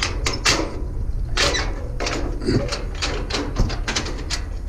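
A run of irregular metallic clicks, knocks and rattles from scrap metal being worked by hand, with a short low creak about two and a half seconds in.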